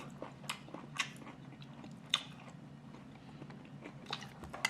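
A person chewing a mouthful of oatmeal with nuts, with a few sharp clicks and mouth noises scattered through it.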